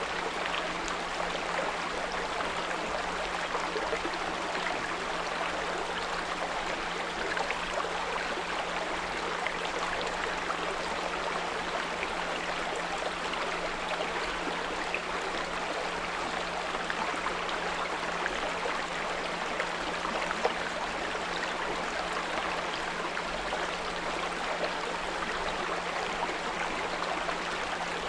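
Small brook running steadily over stones, with a steady low 174 Hz pure tone held underneath the water sound.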